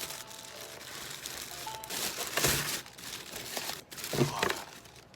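Crinkling and rustling in short bursts, about two seconds in and again about four seconds in, over soft background music with a few melodic notes.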